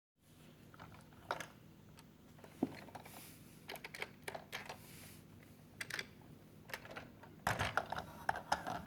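Irregular sharp clicks and taps of hands handling a plastic toy train, with a quick cluster of clicks about seven and a half seconds in.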